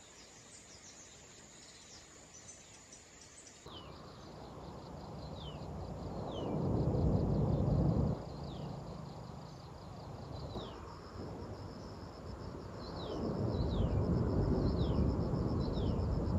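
Insects trilling steadily at first. Then, after an abrupt change, a bird repeats short falling calls over a rushing noise that swells loud twice.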